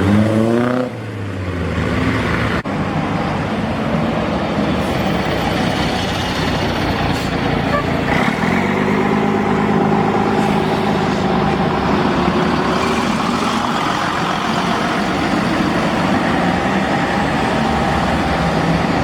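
Car engines on the road: one accelerates away with a rising pitch in the first second, then traffic noise continues, and another engine runs at a steady note for several seconds in the middle.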